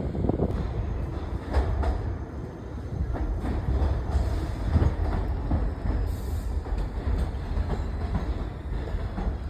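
New York City subway train running on the tracks: a steady low rumble with the wheels clicking over rail joints at irregular intervals.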